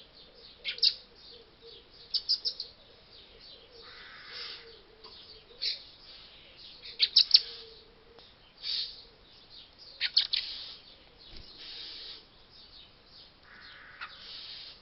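Small birds chirping: short, sharp, high chirps, some in quick runs of three or four, scattered throughout. Twice there is a brief soft rustling noise.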